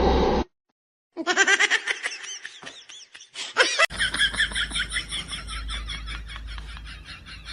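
High-pitched laughter in quick rapid bursts, starting about a second in and running on after a sudden change about four seconds in.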